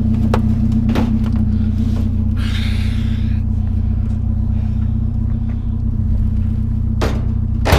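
Pickup truck engine idling with a steady low hum, with a few knocks and a brief scraping sound about two and a half seconds in as a heavy TV is shifted in the truck bed.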